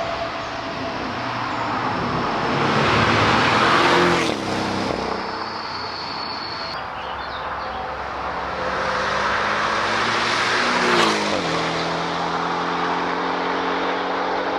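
Porsche 718 Cayman GTS's turbocharged 2.5-litre flat-four engine and exhaust under hard acceleration, the pitch climbing to an upshift about four seconds in and again to a second upshift about eleven seconds in, then pulling steadily at lower revs.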